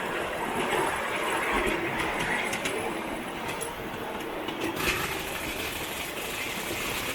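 Model train running along its track: a steady mechanical running noise with a few sharp clicks.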